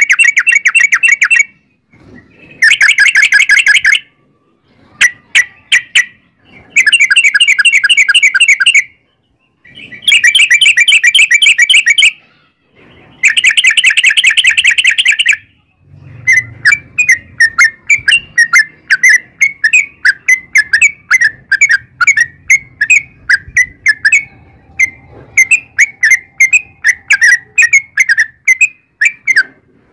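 Yellow-vented bulbul (trucukan) song: short bursts of fast, rapidly repeated notes in a rolling trill, each about two seconds long with brief pauses between. About halfway through it changes to a long, unbroken run of separate chirps, about three or four a second.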